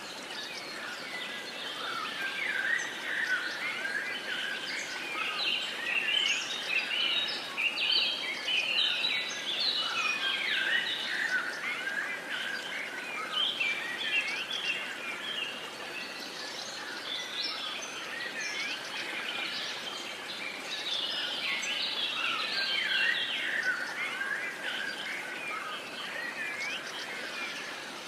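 A chorus of several songbirds chirping and singing over a steady background hiss. The chirping thickens in two stretches, the first running from a couple of seconds in to about halfway, the second near the end.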